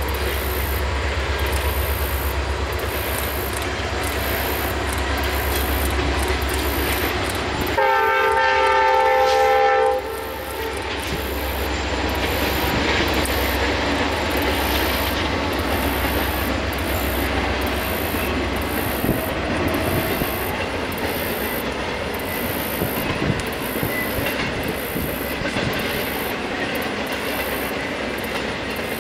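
Norfolk Southern intermodal freight train rolling past, a steady rumble of wheels on rail with scattered clicks. A train horn sounds once for about two seconds, about eight seconds in, and cuts off sharply.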